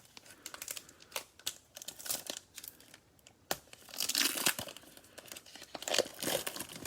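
Cellophane wrapper of a Mosaic football cello pack being torn open and crinkled, with scattered crackles and two louder rustling stretches about four and six seconds in.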